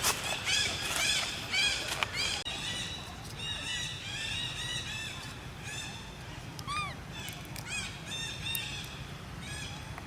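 A group of monkeys giving many short, high-pitched, arched squeals, overlapping and repeated throughout, with a few sharp clicks in the first two seconds.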